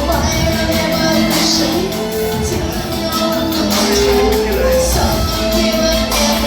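Live band music played through a venue sound system and heard from within the audience: a sustained melody over a steady beat.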